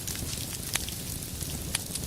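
Wood fire burning in a fireplace: a steady low rumble with two sharp crackling pops, about a second apart.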